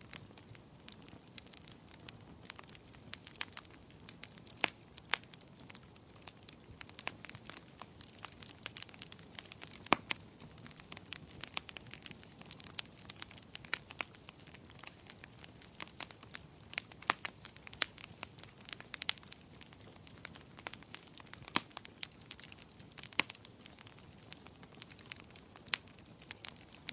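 Wood fire crackling: irregular sharp pops and snaps over a soft low hiss.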